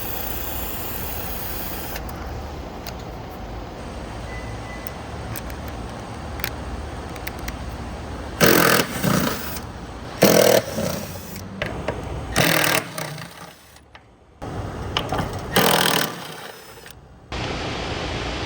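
A refrigerant recovery machine runs steadily underneath, while a tool works the scroll compressor's mounting bolts loose in four short, loud bursts in the second half.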